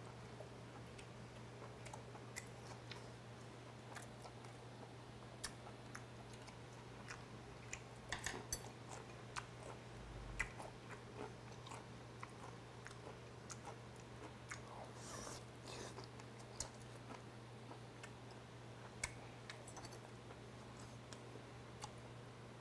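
A person chewing and biting into a piece of boiled native chicken on the bone, faint, with scattered small clicks and a few louder clusters about 8 and 15 seconds in. A steady low hum runs underneath.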